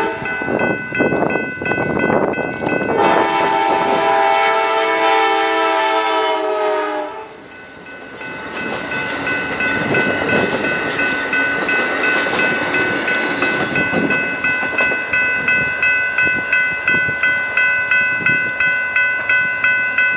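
Passing Amtrak Cascades passenger train sounding its locomotive's multi-tone air horn: a short blast at the start, then a long blast lasting about four seconds that drops slightly in pitch as it goes by. A grade-crossing bell rings steadily about twice a second throughout, over the rumble and clatter of the train passing.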